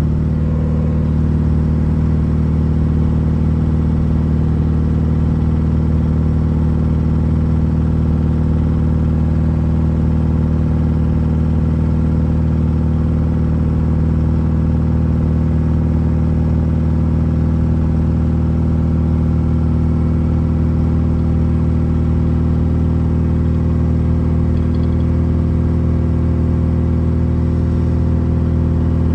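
Straight-piped four-cylinder engine of a BMW E36, fitted with a cheap parts-store muffler, running at a steady, unchanging engine speed; the exhaust note stays on one pitch throughout.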